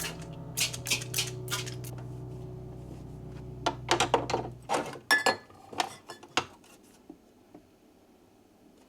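Dishes and utensils clinking and knocking against each other: a run of sharp clinks, thickest around the middle, then trailing off into near quiet.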